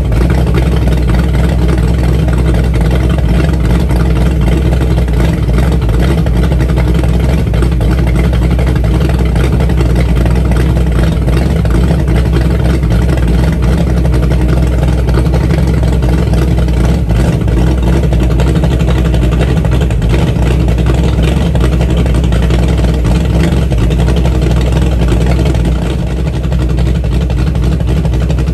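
360 stroker V8 engine running steadily and loudly on its first start-up run, with a slight drop in loudness near the end.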